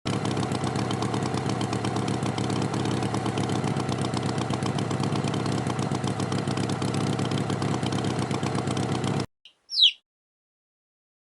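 Cartoon tractor engine running at a steady idle with a rapid, even chug, cutting off suddenly about nine seconds in. A short high chirp follows about half a second later.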